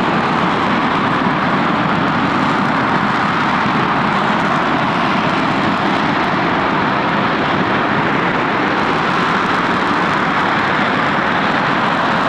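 RS-25 liquid-fuelled rocket engine in a static test firing on the stand, a steady rushing noise that does not change over the seconds.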